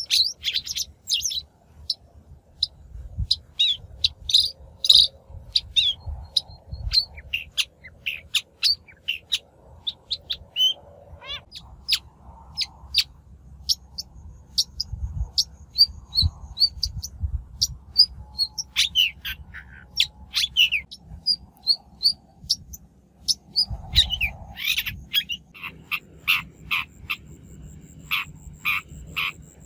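Long-tailed shrike singing: a rapid, varied run of short, sharp chirps and harsher notes, with a low rumble underneath.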